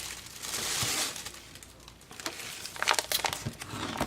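Plastic pocket-letter sleeve and paper being handled, crinkling. A burst of rustling in the first second, then quieter handling with a few sharp crackles about three seconds in.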